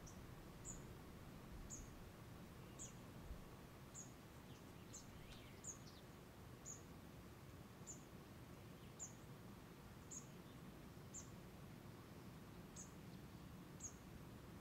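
Faint outdoor hush with a bird repeating a single high, thin chirp about once a second, each note dipping slightly. A lower falling note comes about halfway through.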